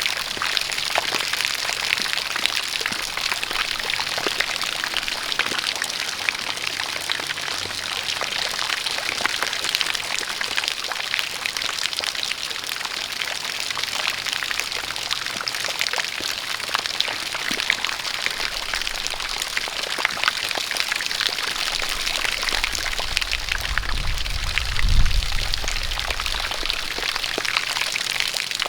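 Steady rain with many separate drops ticking, over a jet of water pouring and splashing. A low rumble swells in over the last ten seconds or so and is loudest about 25 seconds in.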